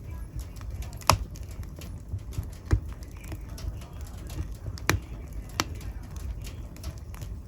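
Wood fire crackling in a fireplace: irregular sharp pops and snaps, the loudest about a second in, over a low steady rumble of the flames.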